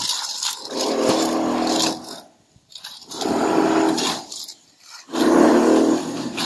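Mason's trowel scraping across fresh plaster in repeated strokes, each about a second long and roughly every two seconds, with a grating, slightly pitched rasp.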